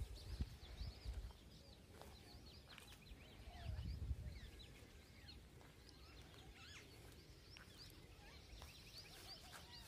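Faint outdoor bird chirping: many short, high calls scattered throughout, with a brief low rumble about four seconds in.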